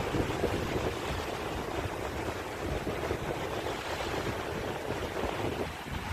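Wind rushing and buffeting across the microphone over the wash of sea waves. The rumble eases slightly near the end.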